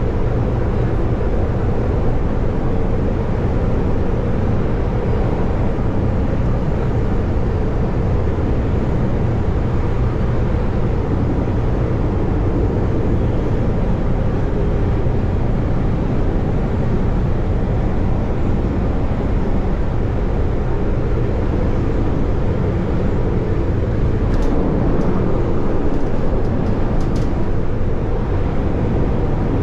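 CTA rapid-transit train running at speed, heard from inside the car: a steady rumble of wheels on rail with a low motor hum that drops away about 24 seconds in, followed by a few light clicks.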